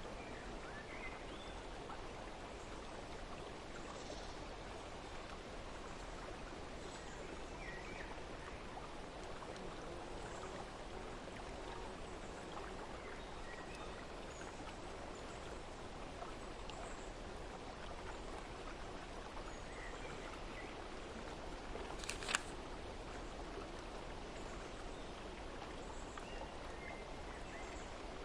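Steady noise of running stream water, with faint, scattered bird chirps. One sharp click about six seconds before the end.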